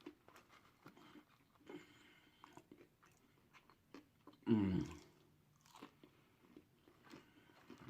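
A person chewing and biting into deep-fried turkey tails close to the microphone: scattered small crunches and mouth clicks. About four and a half seconds in there is a short hummed 'mm'.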